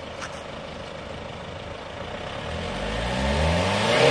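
Hyundai Santa Fe DM diesel engine heard at its exhaust tip, running steadily, then revved with its pitch rising over the last second and a half.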